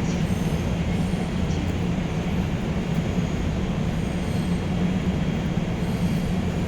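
Steady low rumble and hum of an electric train at a station platform, with no distinct events.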